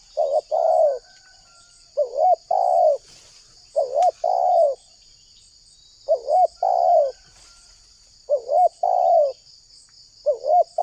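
Spotted dove cooing: a short note and then a longer, dipping coo, the phrase repeated about every two seconds.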